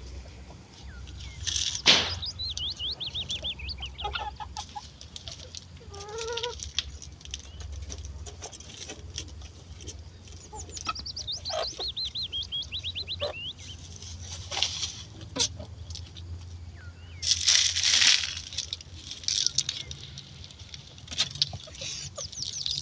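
Chickens clucking, with runs of quick high calls, scattered knocks, and a brief loud rustle or flutter about three-quarters of the way through.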